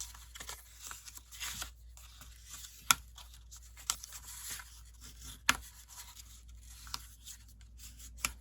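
File-folder card being folded and creased into a zigzag gusset by hand: soft rustling and rubbing of stiff paper, with a few sharp ticks.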